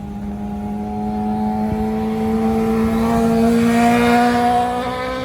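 Sport motorcycle engine running steadily, its pitch rising slowly as it grows louder, peaking about four seconds in and then easing off a little.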